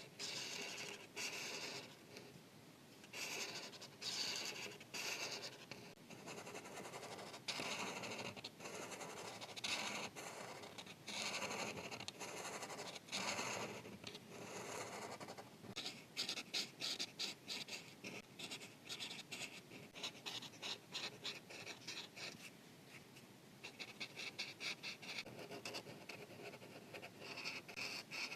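Marker tips scratching across paper as an area is colored in. The strokes are longer and slower at first; from about halfway they turn into quick back-and-forth strokes, several a second.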